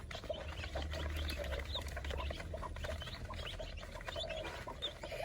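A flock of young chicks peeping, with many short, high peeps overlapping in no steady rhythm.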